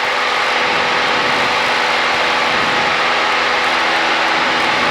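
Steady in-flight cabin noise of a Cessna 172: engine and propeller drone under a loud, even airflow hiss.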